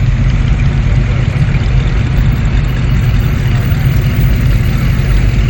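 Car engines idling, a steady low rumble with no revving.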